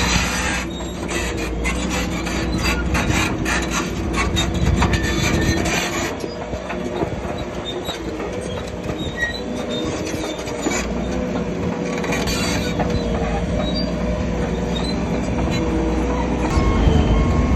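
Bulldozer working: its steel crawler tracks clank and squeal over the diesel engine's steady running, with the clanking thickest in the first six seconds or so.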